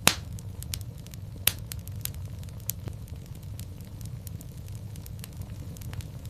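Wood fire crackling in a fireplace: a steady low rumble of flame with frequent sharp snaps and pops, the loudest pop right at the start and another about a second and a half in.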